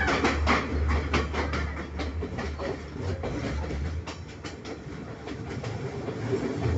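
Udarata Menike passenger train running, its wheels clacking over the rail joints in a quick, uneven run of clicks over a steady low rumble.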